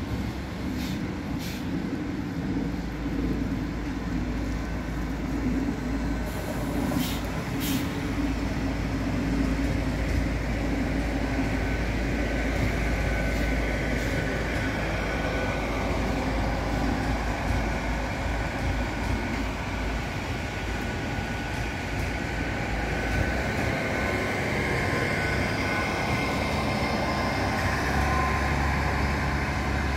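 Hitachi Class 800 bi-mode train running on its underfloor diesel engines as it comes through close by, a steady low engine drone with rail noise. A high whine comes in during the second half.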